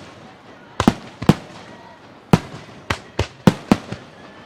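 Aerial firework shells bursting in a run of about eight sharp bangs at uneven gaps, starting about a second in, each dying away quickly.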